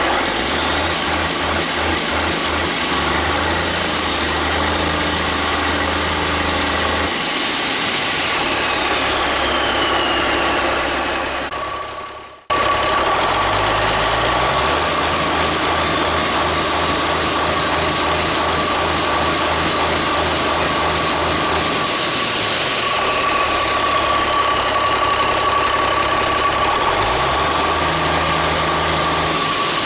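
Cummins N14 Celect Plus inline-six diesel engine running, its speed shifting up and down, with a high whine that rises and falls along with it. The sound drops out briefly about twelve seconds in, then the engine is heard again.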